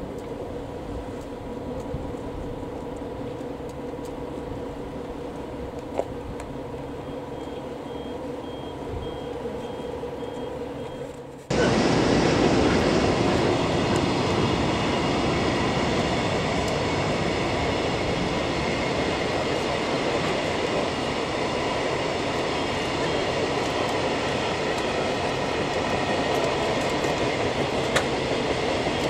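Rail-yard train noise. A quieter steady hum with a few held tones cuts off abruptly about eleven seconds in. It is replaced by a louder, steady rumble of train wheels on track with a cluster of high, held squealing tones.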